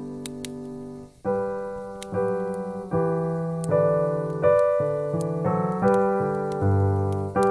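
Piano music: slow chords and melody notes struck one after another, each ringing and fading, with a brief gap about a second in. A few faint sharp clicks sound over it.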